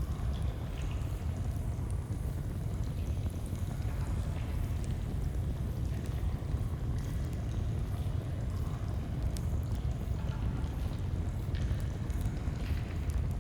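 Campfire and stream ambience: a flowing stream's steady low rushing with scattered small crackles and pops of a campfire.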